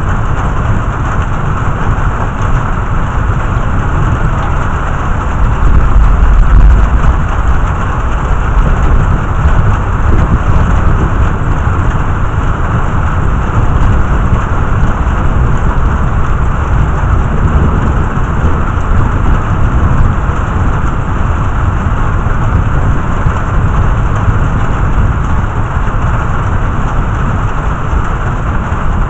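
Heavy thunderstorm rain pouring steadily, with a low rumble of thunder swelling about six seconds in and smaller low rumbles later.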